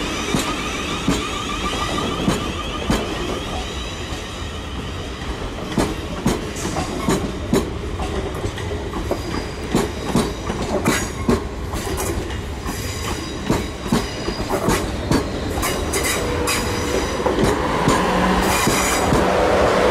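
South Western Railway passenger train running past on the tracks, its wheels clicking over rail joints and points, with a steady hum growing louder near the end.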